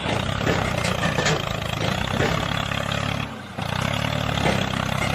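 Small motor running with a steady buzz, dropping away briefly a little over three seconds in, then running on.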